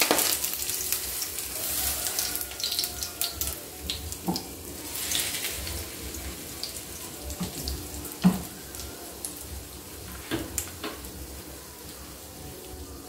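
French toast frying in hot sunflower oil in a pan, sizzling, loudest at the start and dying down over the following seconds. A few light knocks sound in between.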